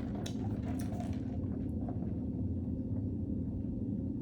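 Faint wet chewing and mouth sounds from eating chicken wings in the first second or so, over a steady low hum.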